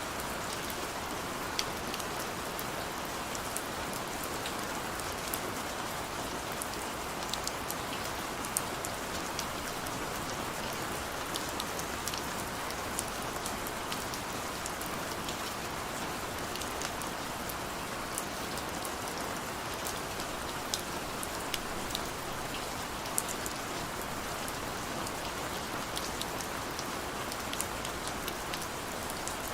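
Heavy rain falling steadily: an even hiss with scattered sharp drop impacts.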